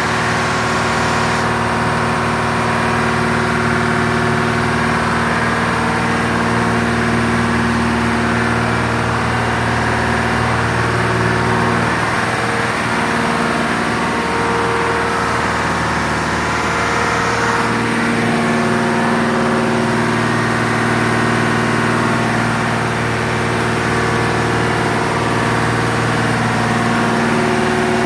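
Marine engine running steadily in an engine room: a loud, even drone with a dense stack of tones, whose pitch shifts slightly about twelve seconds in and again near eighteen seconds.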